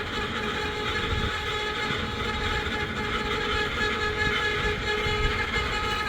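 Steady mechanical drone: a low rumble with several held tones over it, unchanging throughout.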